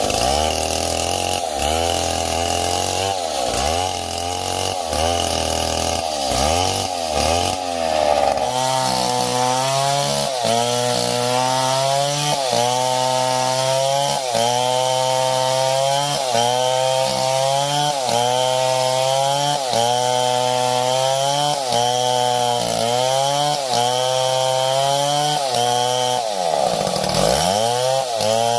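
Chainsaw engine running at high revs while cutting wood, its pitch sagging under load and picking back up about once a second. Near the end the revs drop sharply and climb back up.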